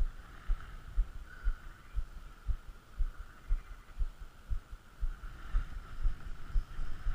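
Footsteps thudding about twice a second, heard as dull low thumps, with a faint steady high hum.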